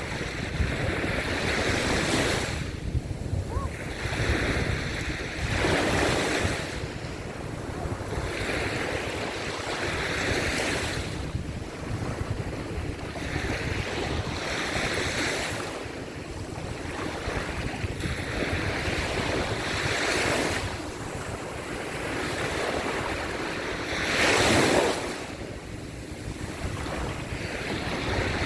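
Small surf washing up a sandy beach, each wave swelling and receding every few seconds, with one bigger wave near the end. Wind rumbles on the microphone throughout.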